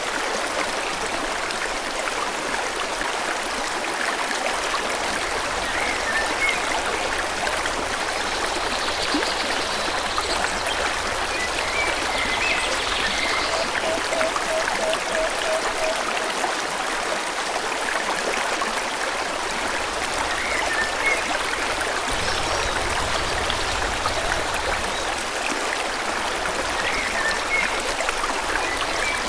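A stream of water flowing steadily, with faint bird chirps now and then above it.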